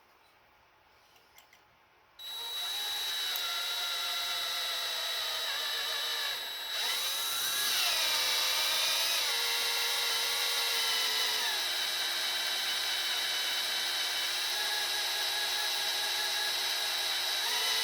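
Electric drill starting about two seconds in and running with a steady whine, easing off briefly and speeding back up partway through, as a reverse (left-hand) drill bit bores into a broken bolt in an engine block.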